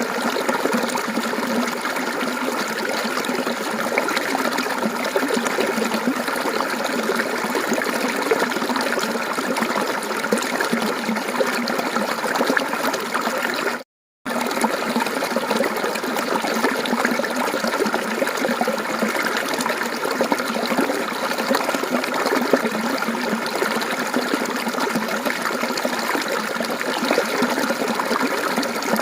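Mountain stream water flowing and trickling steadily. It cuts out completely for a moment about halfway through, then resumes.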